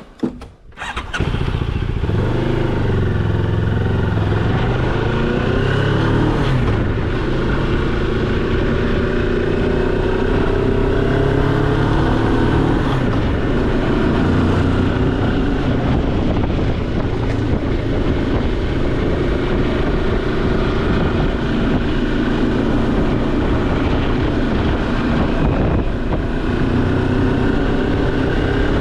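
Moto Morini X-Cape's parallel-twin engine running loud and steady, with the engine note drifting up and down as the revs change. It starts about a second in, after a few faint clicks.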